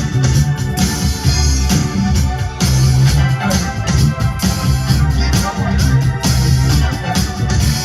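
Live band playing a funky instrumental passage, with organ, bass and drums and no vocals.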